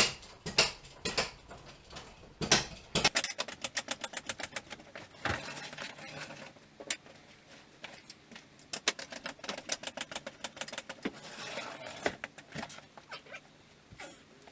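Quick runs of light clicks and rattles, densest about three seconds in and again about nine seconds in.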